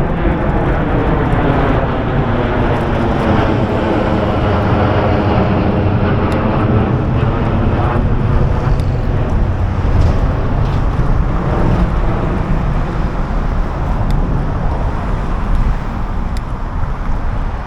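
Jet airliner passing low overhead: a loud, steady rumble with a pitched whine that slowly falls, then gives way to a rougher roar after about eight seconds.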